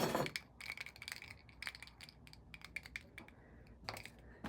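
Faint, irregular clicks and taps of small figurines being picked up, shuffled and set down on a hard surface.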